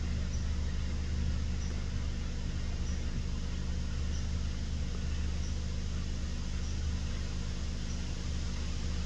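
Car engine idling: a steady low hum heard from inside the cabin.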